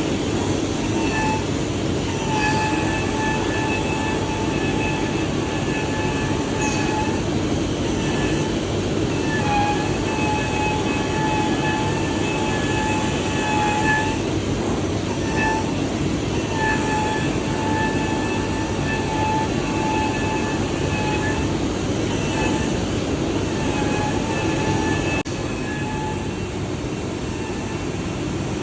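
CNC fabric cutting machine running on PVC tent fabric: a steady rushing mechanical noise with a high whine that starts and stops every one to few seconds as the cutting head moves and pauses. The whole sound drops a little near the end.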